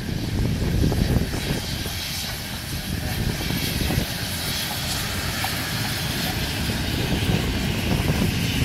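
Peppercorn A1 Pacific steam locomotive 60163 Tornado and its train running past, a steady low rumble with a rushing noise above it.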